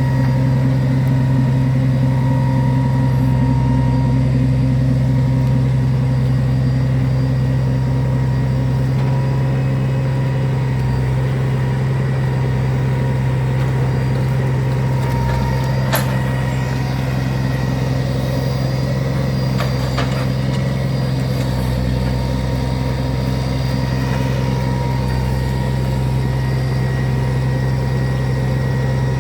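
Log truck's engine idling steadily, a low even drone that holds one pitch, with two sharp clicks a few seconds apart about halfway through.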